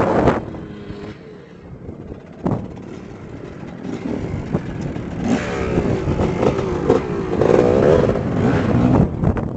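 Off-road motorcycle engine running and revving up and down, growing louder about halfway through.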